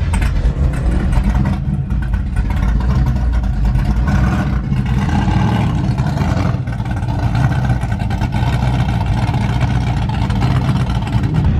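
Turbocharged LS1 V8 of a Holden VY SS Commodore idling steadily, heard from inside the cabin as a low rumble.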